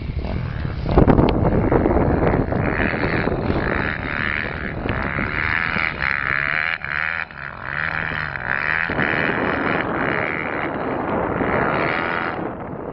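Motocross bike engine revving up and down as it rides in snow, the pitch rising and falling, fading near the end.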